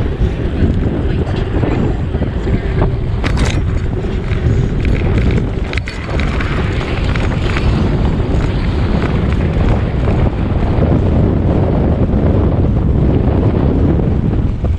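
Wind buffeting the microphone of a camera carried on a moving bicycle: a steady, loud rumble heaviest in the low end. A brief sharp rattle comes about three and a half seconds in.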